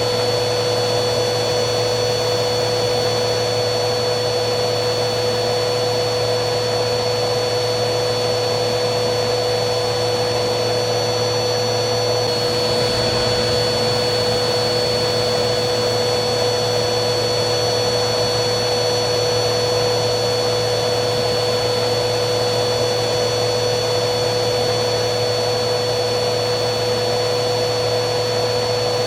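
Vacuum cleaner motor running steadily: a constant rushing hiss with a steady whine over it, one of its high tones shifting slightly about twelve seconds in.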